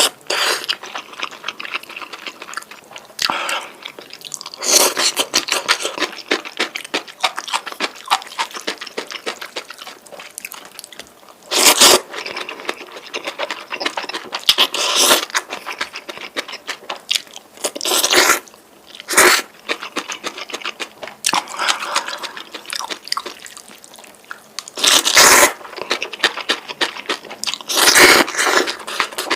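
Close-miked eating of noodles: a continuous run of wet chewing and crunching mouth sounds, with several louder short bursts spread through.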